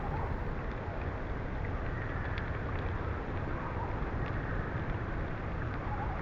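Steady rain ambience: an even wash of rain noise over a low rumble, with a few faint drop ticks.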